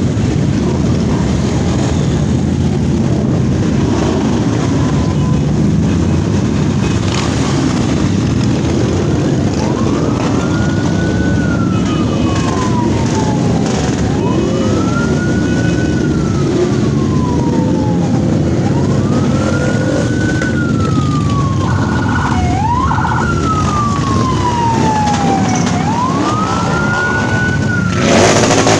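A siren wailing in slow sweeps, each rising quickly and then falling slowly, repeating about every four to five seconds from about a third of the way in, over a steady rumble of vehicle engines. A brief loud burst of noise comes near the end.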